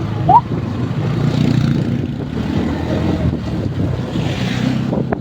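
Motorcycle engines running, with wind noise on the microphone. A short, loud rising squeak comes about a third of a second in.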